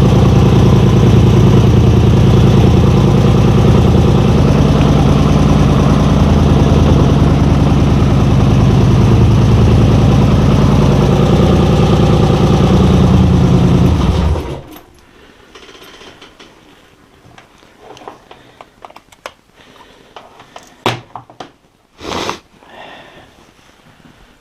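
A vehicle engine idling steadily, then shut off about fourteen seconds in, the sound stopping abruptly. A few faint clicks and two sharper knocks follow.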